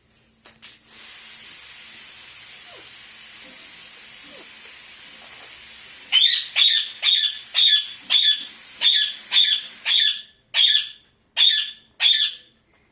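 A steady hiss for about five seconds, then a pet parakeet screeching in a run of about a dozen loud, short, harsh calls, roughly two a second, spacing out near the end.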